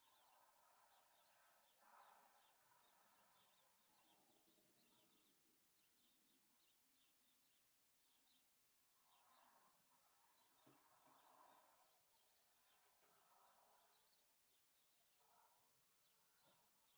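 Very faint outdoor ambience: small birds chirping in quick, repeated short notes throughout, over a soft background hiss that swells and fades a few times.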